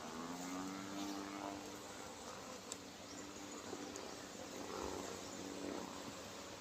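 Honeybees buzzing around an open hive: a steady hum that drifts slightly in pitch as bees fly close by, with a single light click a little over two and a half seconds in.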